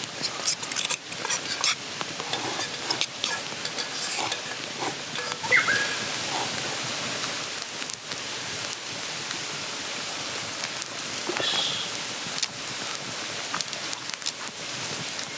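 Steady rush of a mountain stream, with quick light clicks of utensils in the first few seconds and two short high chirps, one about five seconds in and one near twelve seconds.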